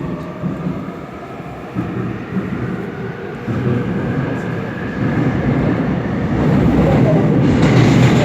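Seoul Metro Line 7 subway train pulling away and gathering speed: the traction motors whine with a pitch that rises, and the rumble of wheels on track grows steadily louder toward the end.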